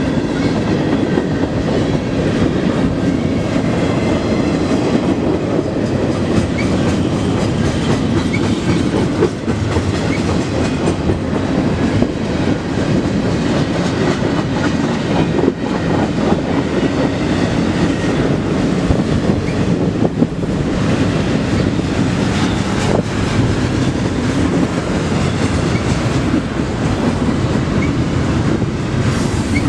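Cars of a long intermodal freight train rolling past, a steady rumble of steel wheels on rail with clickety-clack over the rail joints and a few sharper knocks.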